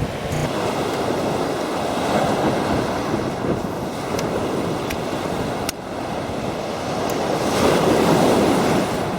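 Sea waves breaking and washing on a beach, swelling twice, with wind buffeting the microphone. A few faint sharp clicks are heard through the middle.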